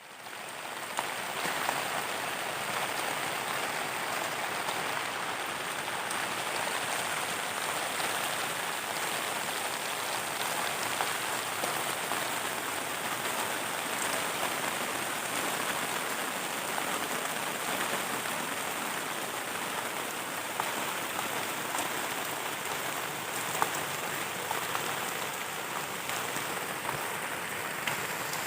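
Heavy rain falling steadily on a dome tent, with a few sharper drop hits, coming up suddenly at the start.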